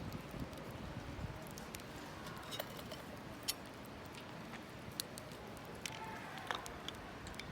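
Wood fire crackling, with a steady low rustle and scattered sharp pops a few times.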